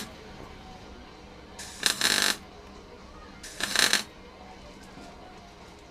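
Three short, harsh scraping or rasping strokes, roughly two seconds apart, with quiet between them.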